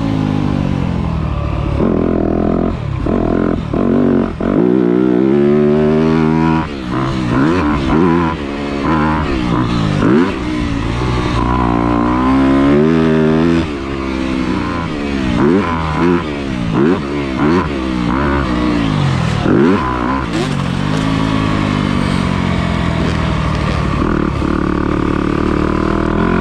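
Motocross dirt bike engine being ridden hard, its revs climbing and dropping again and again as the throttle is opened, chopped and reopened through the gears.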